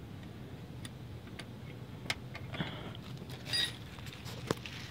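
Scattered light metallic clicks and taps of hand tools working at a brake bleeder fitting, over a low steady hum, with a brief clink about three and a half seconds in and a sharper click near the end.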